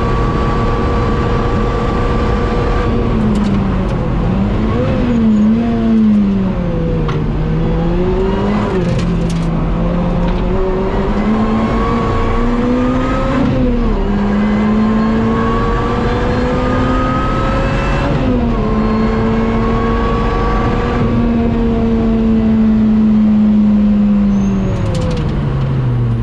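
Lotus Exige S supercharged engine under hard acceleration. Its note climbs in long rising sweeps that drop back at each gear change, holds steady for a few seconds, then falls away near the end. The car is short on power because oil from a torn shaft seal has fouled the supercharger belt.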